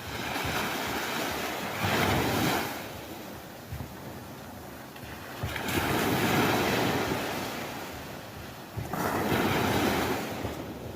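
Sea waves washing onto the shore, each surge swelling into a loud rush of surf and then ebbing away, several a few seconds apart.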